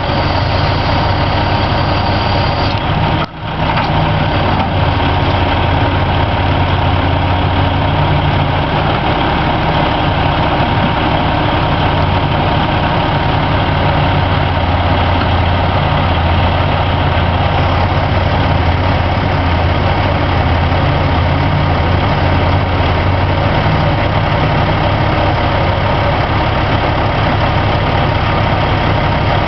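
Heavy diesel engine idling steadily with a deep, even hum, with a brief dropout in the sound about three seconds in.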